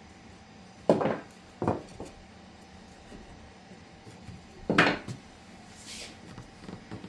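Wooden border pieces knocked and set down on a work surface: three sharp clatters, about a second in, just after that, and near five seconds, with a few lighter taps between.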